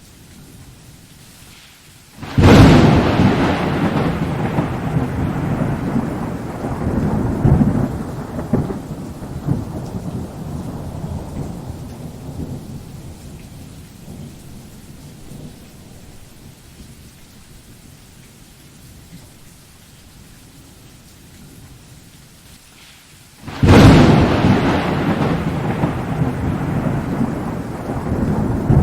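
Thunderstorm with steady rain hiss underneath: a sudden thunderclap about two seconds in rolls into a long rumble that swells again and slowly dies away, and a second loud clap near the end starts another rumble.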